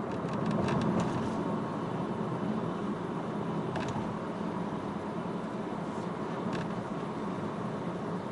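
A road vehicle driving, heard onboard: a steady engine and road rumble, with a few short clicks near the start and twice more later.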